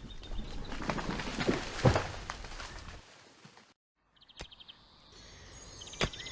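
Rustling and knocking noises with a heavy thud about two seconds in, then a short break and birds chirping in quick trills.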